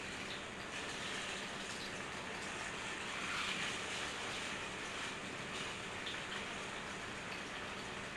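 Seasoned chicken breasts frying in hot vegetable oil in a pan: a steady sizzle with small scattered crackles.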